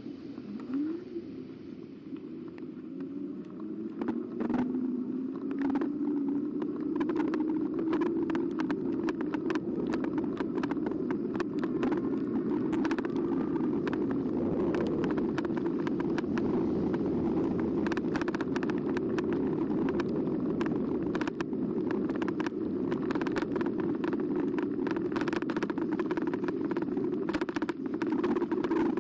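E-bike ridden along a path: the electric motor's whine rises in pitch as the bike picks up speed over the first few seconds, then holds steady, with frequent clicks and rattles as the bike runs over bumps.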